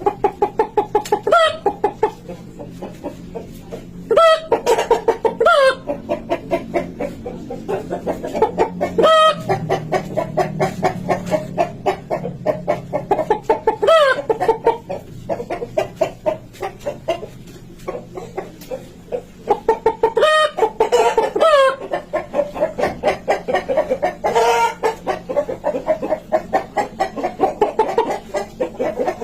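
Chickens clucking in a fast, steady run of short clucks. Sharp rising-and-falling calls break in over it about eight times.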